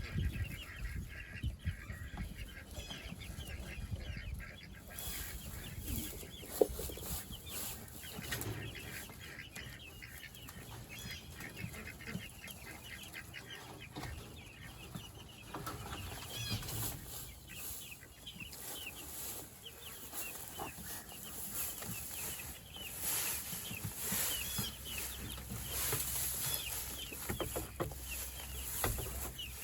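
A flock of meat chickens clucking and peeping, many short calls overlapping throughout and growing busier in the second half.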